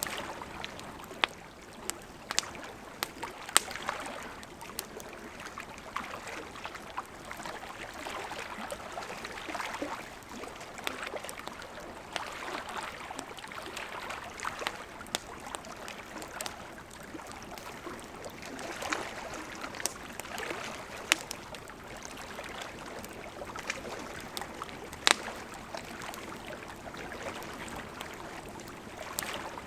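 Wood campfire crackling, with sharp pops every second or two, the loudest about three seconds in and near twenty-five seconds, over the steady gurgle of a gently flowing river.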